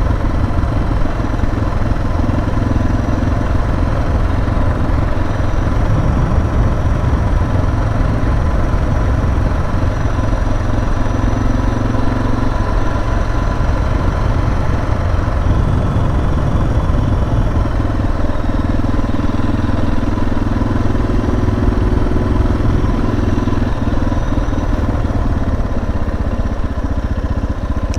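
Suzuki DR650's single-cylinder four-stroke engine running under way at a steady cruise, its note rising and falling a little a few times, with wind buffeting the microphone.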